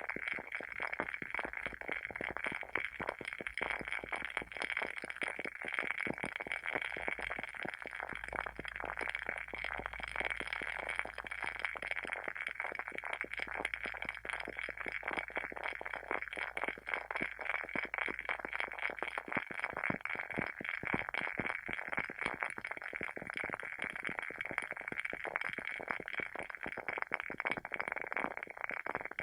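Wooden wick of a WoodWick candle burning, giving a dense, continuous crackle of small irregular pops like a tiny campfire.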